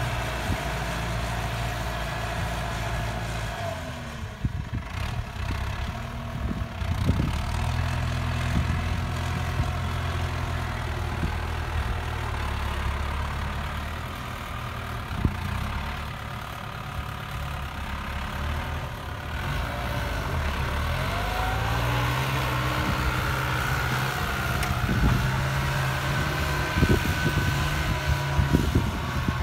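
Farm tractor's diesel engine running, its engine speed shifting a few times, with scattered knocks and clatter growing more frequent near the end.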